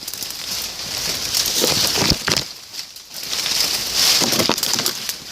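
Branches and leaves of dense brush rustling and crackling against a hiker pushing through it, with twigs snapping underfoot. It comes in waves, easing off briefly about halfway through.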